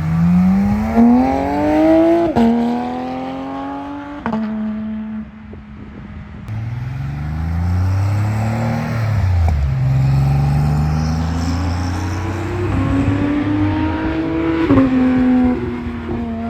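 High-performance car engines accelerating hard. The engine note climbs and then drops sharply at each upshift, about two and four seconds in. A lower engine sound rises and falls mid-way, and another climb ends in an upshift near the end.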